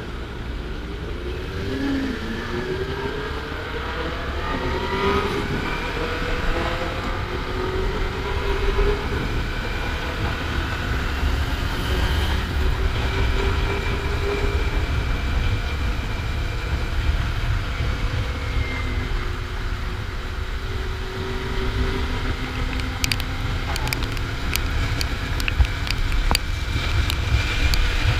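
Kawasaki Ninja 400's parallel-twin engine pulling up through the gears in a series of rising runs, then cruising steadily, under constant wind rush on the microphone. Near the end a scatter of sharp ticks sounds over the ride noise.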